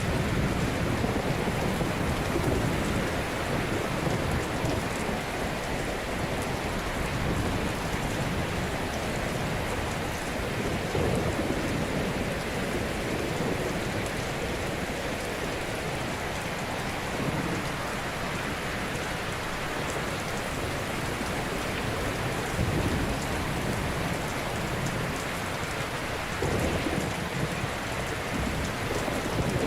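Ocean waves breaking on a shore: a continuous rushing wash, with deeper surges swelling now and then.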